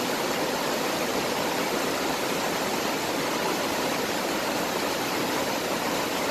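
Mountain valley stream rushing steadily, its water running high.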